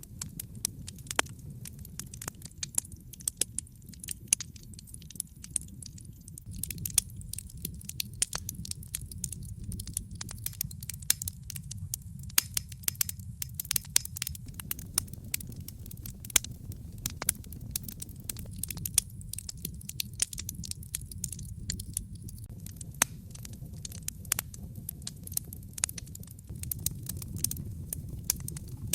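Wood fire burning in a fireplace: frequent irregular sharp crackles and pops over a low steady rumble.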